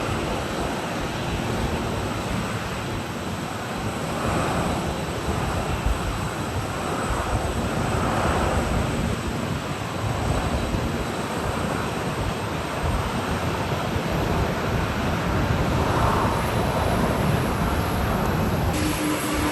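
Strong gusty wind rumbling on the microphone over the jet noise of a Boeing 787-9 airliner landing. The sound changes abruptly near the end.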